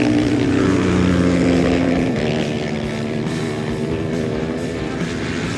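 Racing motorcycle engine running hard, its pitch dropping about two seconds in, with music playing alongside.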